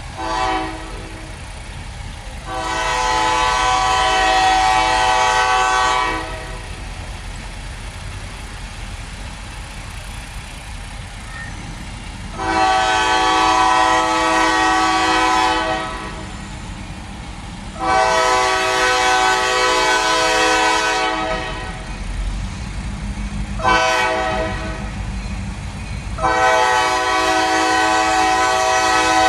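Diesel locomotive's multi-chime air horn sounding, over the low rumble of the train. It blows a short blast and a long blast, then the grade-crossing signal: long, long, short, long.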